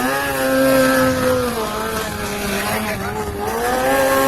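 Kawasaki 636 sport bike's inline-four engine revving up and holding, easing off about a second and a half in, then rising again near the end.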